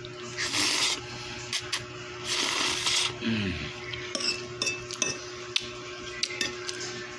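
Eating sounds: a spoon and fork clicking and scraping on a plate, with two short hissing noises in the first three seconds and a low falling 'mm' about three seconds in.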